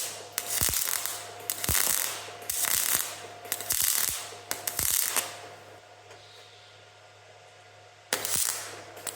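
Wire-feed (MIG) welder putting short tack welds on thin sheet metal: a string of crackling bursts, about six in the first five seconds, then a pause and one more near the end, over a steady low hum.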